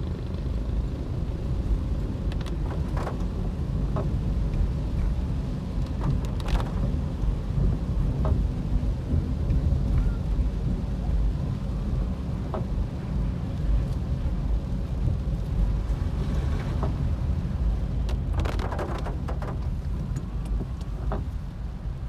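Steady low road and engine rumble heard from inside a moving car, with scattered raindrops ticking on the car's body and windscreen. A broader wash of noise swells briefly near the end.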